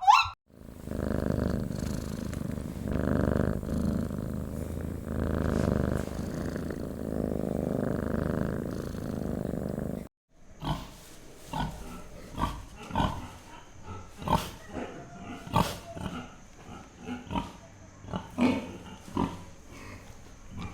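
A farm animal's low, growly vocal sounds swelling in about five pulses over roughly ten seconds. It cuts off suddenly and is followed by a run of irregular sharp clicks and knocks.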